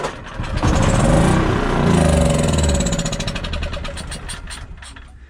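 Small pull-start gasoline engine on partial choke catches about a second in, revs unevenly up and down, then dies away over the next few seconds. It fires but won't keep running, which the owner puts down to a carburetor not fully cleaned.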